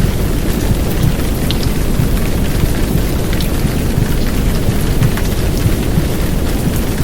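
Heavy downpour of rain mixed with a steady womb-sound track, heard as a dense, low whooshing rumble under an even hiss, with an occasional sharper drop tick.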